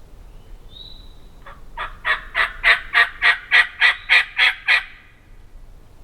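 Wild turkey yelping: a faint high squeak, then a loud series of about eleven evenly spaced yelps, roughly three a second, that swells and fades.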